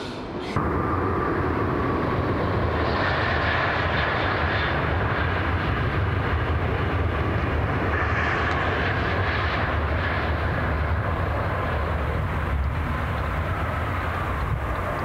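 ICE high-speed train passing at speed: a steady rushing rumble with a faint high whine above it, starting suddenly about half a second in.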